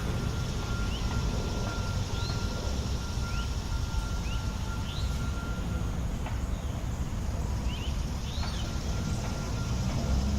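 Steady low rumble of distant city traffic, with a bird repeating short rising chirps about once a second.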